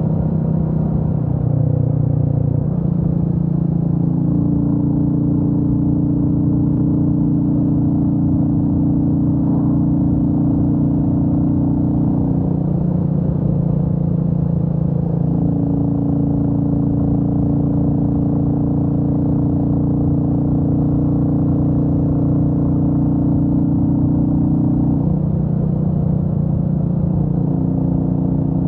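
Royal Enfield Meteor 350's single-cylinder engine running under way. The engine note holds steady, then steps up and down several times as the revs change.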